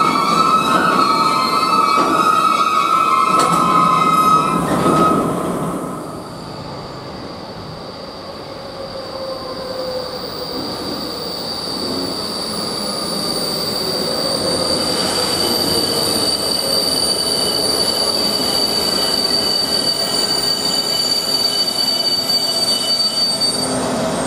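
Freight train of tank wagons rolling slowly to a stop, its wheels and brakes giving steady high squeals. After a cut about six seconds in, a ZSSK class 163 electric locomotive brings a passenger train in to the platform, growing louder as it approaches, with one long, high, steady brake squeal.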